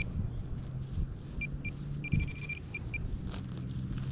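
Minelab Manticore metal detector beeping: a few short high-pitched beeps about a second and a half in, a longer tone around two seconds, then two more quick beeps, over a low steady hum.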